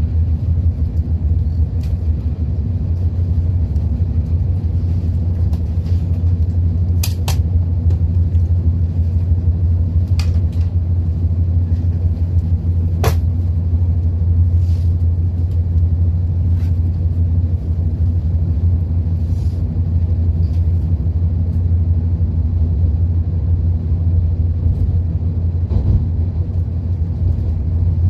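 Steady low rumble of a Shinkansen train running, as heard from inside the passenger car, with a few brief sharp clicks.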